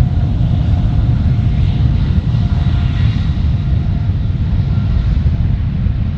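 Jet airliner engines giving a loud, steady low rumble during a departure, with a faint whine that fades out.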